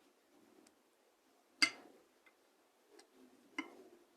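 Large spoon clicking and tapping against a small bowl while stirring a flour-and-water dough: a few light, scattered clicks, the sharpest about one and a half seconds in.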